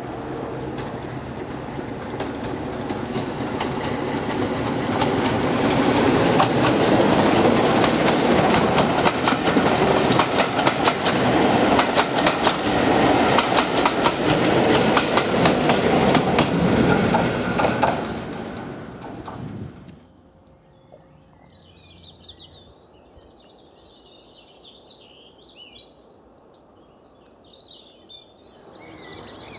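A preserved diesel locomotive hauling a train passes by. It grows louder, holds for about twelve seconds with the wheels clicking rapidly over the rail joints, then dies away about two-thirds of the way through. After it has gone there are short chirps of birdsong.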